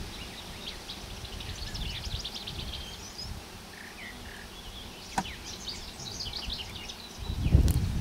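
Outdoor field ambience: birds singing quick chirping phrases in two spells over a low, steady rumble, with a sharp click about five seconds in and a louder low rumble near the end.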